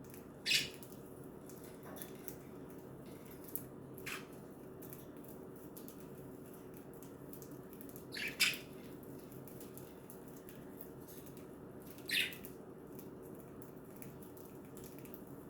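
Pet budgerigars giving four short, sharp squawks spaced about four seconds apart, the third the loudest, over a steady low room hum.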